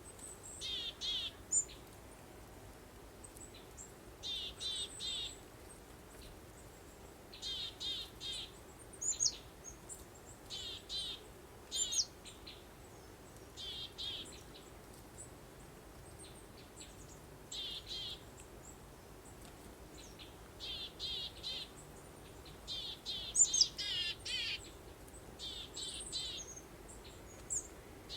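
Songbirds chirping in short bursts of three or four quick high notes every second or two, with a few higher whistles, over a faint steady background hiss. The calls grow busiest and loudest a little over halfway through.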